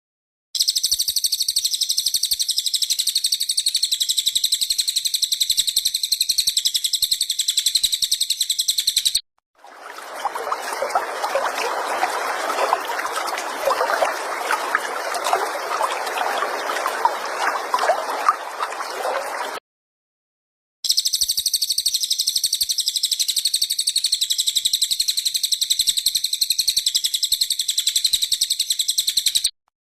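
Looped songbird recording for song training: a high-pitched, rapidly pulsing trill held for about nine seconds, cut off, then about ten seconds of a lower, noisy gurgling chatter, then the same high trill again after a short gap.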